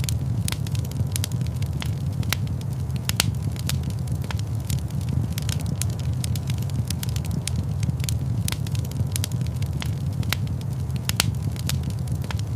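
Wood fire in a stone fireplace crackling, with irregular sharp pops and snaps over a steady low rumble.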